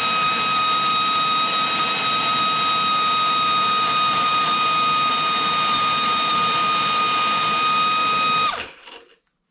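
Pneumatic angle grinder running at steady full speed under an endurance test, a high steady whine over the hiss of air. It shuts off suddenly near the end.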